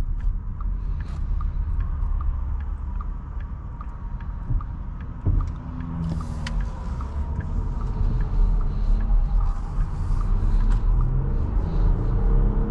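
Low cabin rumble of a 2024 Porsche Cayenne driving on a wet road, with a light ticking about twice a second, and a pitch rise near the end as it speeds up.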